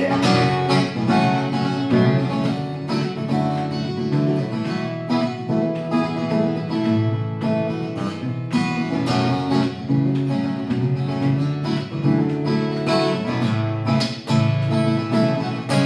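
Acoustic guitar playing an instrumental passage of a song, with no singing.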